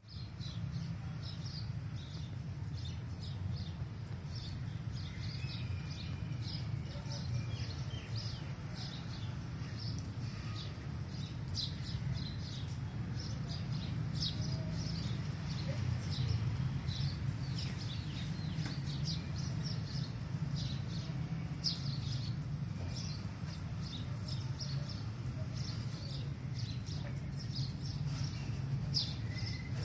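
Small birds chirping rapidly and continuously, many short high chirps close together, over a steady low rumble.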